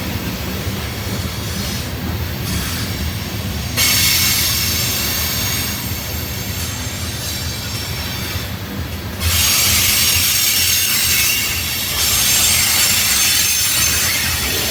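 Norfolk Southern freight train's cars rolling past with a steady rumble. A high-pitched wheel squeal or hiss cuts in abruptly about four seconds in and again about nine seconds in.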